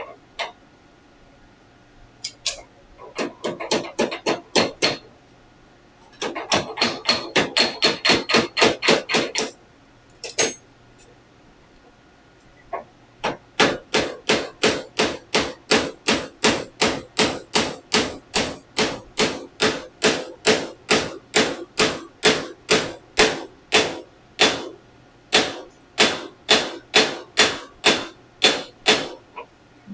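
Hammer tapping a heated gear onto an air-cooled VW crankshaft, driving it home, in three runs of ringing metallic blows: a short run, a faster run of about four blows a second, then a long steady run of about two to three blows a second.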